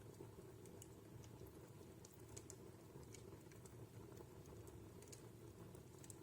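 Wood fire burning in a fireplace: faint, irregular crackles and pops from the logs over a low, steady rush.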